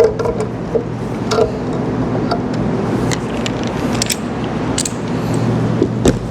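Scattered metallic clicks and clinks of hand tools on pump fittings as the fluid filter manifold is taken off a paint pump, over a steady low hum.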